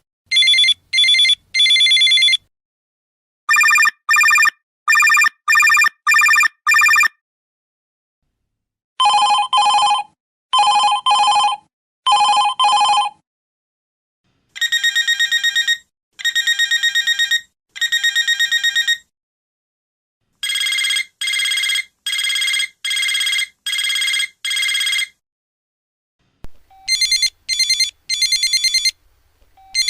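A run of different telephone rings played one after another. Each phone sounds a few short rings with pauses between them, and a new ring takes over every four to six seconds. One in the middle is lower-pitched than the others.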